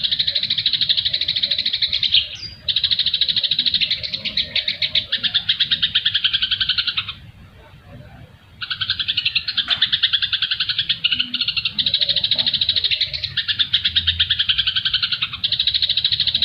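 Recorded songbird chatter: a continuous, very rapid run of high, repeated notes. It breaks off briefly twice, once for about a second and a half in the middle.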